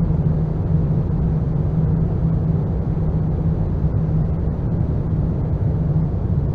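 Dark ambient noise drone: a steady, unbroken low rumble with a constant deep hum underneath and little high end.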